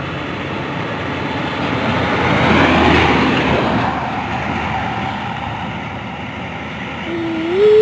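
A heavy truck passing by on the road, its noise swelling to a peak about three seconds in and then fading. Near the end a rising whine climbs in pitch for about a second.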